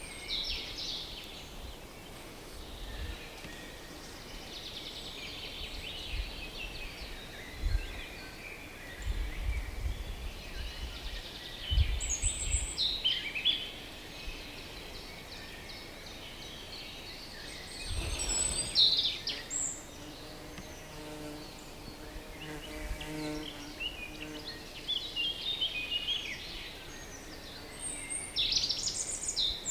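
Several small songbirds singing at once, their high, varied phrases overlapping throughout. Intermittent low rumbles come and go underneath, and a faint low hum with several tones sounds briefly about two-thirds of the way through.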